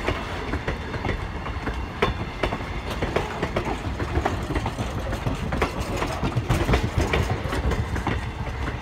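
Passenger coaches of a steam-hauled train rolling past: a steady low rumble with frequent, irregular clicks and clacks of the wheels over the rail joints.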